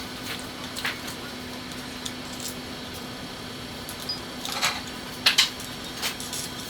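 A few short, sharp knocks and clicks of hard objects, the loudest pair about five seconds in, over a steady low hum.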